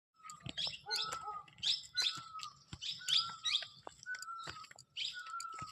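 Birds chirping: short high calls repeated about twice a second, alongside a recurring lower whistled note.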